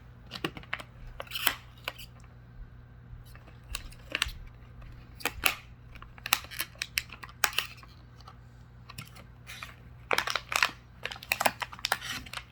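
Irregular taps, clicks and short rustles of a cockatoo handling toys in a cardboard box, with a quick flurry of them about ten seconds in.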